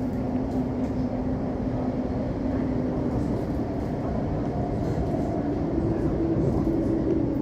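Interior running noise of an Elizabeth line Class 345 electric train: a steady rumble with an electrical hum whose pitch shifts to a slightly higher note about halfway through.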